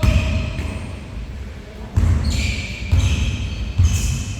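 A basketball bouncing on a gym court: several dull thuds, roughly a second apart, with high squeaks in the latter half.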